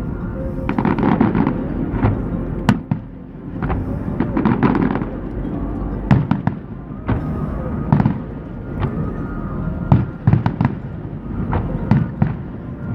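Fireworks display: repeated sharp bangs of aerial shells with bursts of rapid crackling, over a steady low rumble.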